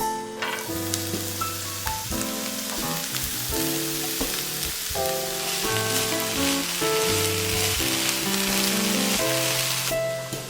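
Spring cabbage and zha cai stir-frying in a pan, a steady sizzling hiss that starts suddenly and cuts off near the end, under background piano music.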